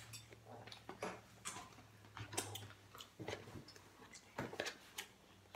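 Faint eating sounds: irregular clicks and smacks of chewing, over a low steady hum.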